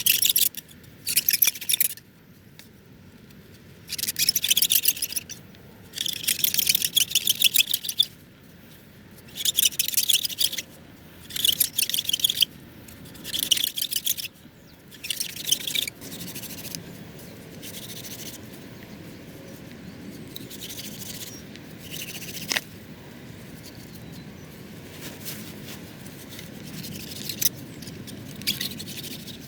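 A dry wooden branch rubbed hard against crushed plant fibres in a hole in a half-rotten stump, to start a fire by friction. The rapid rubbing strokes come in about seven bursts of a second or two, with short pauses between them. After about fifteen seconds only softer, fainter rubbing is left, with one sharp click near the middle of that quieter stretch.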